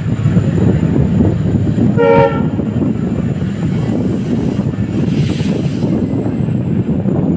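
Diesel passenger train running on the rails, a steady rumble of wheels and engine, with a short horn-like tone about two seconds in.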